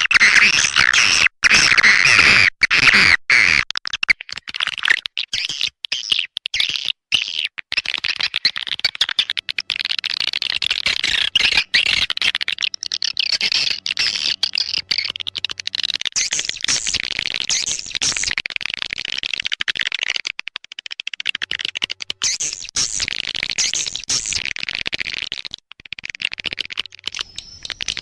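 Swiftlet lure call: dense, rapid twittering and chirping of swiftlets, played as a calling sound to attract them to a nesting house. The chirping is broken by many brief, sudden gaps.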